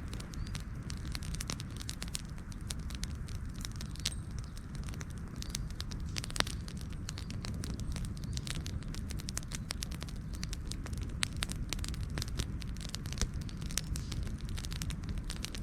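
Wood fire burning with a steady low rumble and many sharp, irregular crackles and pops, one louder pop about halfway through.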